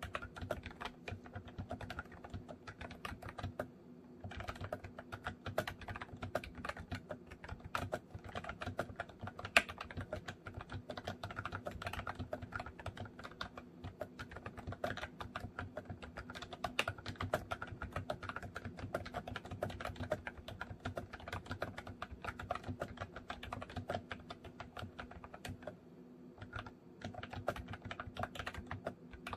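Continuous fast typing on a MOFii Retro Style Candy keyboard, a dense run of key clicks. There are brief lulls about four seconds in and near the end, and one key strike about a third of the way in is louder than the rest.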